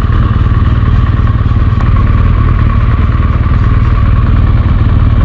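BMW R1200GS boxer-twin engine running steadily at riding speed, a low rumble under a constant rush of wind and road noise.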